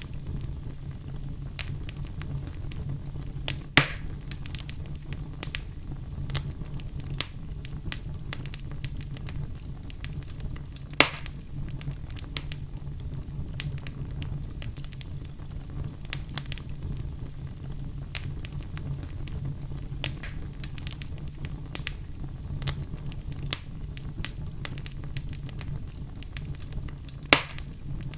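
Wood fire crackling in a fireplace: a steady low rumble of the flames under frequent small irregular pops, with three sharper, louder pops about 4, 11 and 27 seconds in.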